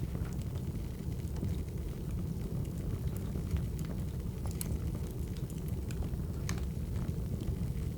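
Wood fire crackling: a steady low rumble of flames with irregular sharp pops and snaps, a loud one about halfway through.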